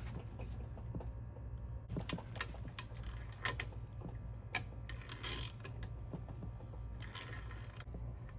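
Irregular metallic clicks and short scrapes of a hand tool working on the transmission case, with a ratchet-like character, as the shift shaft lock bolt is worked loose. A steady low hum sits underneath.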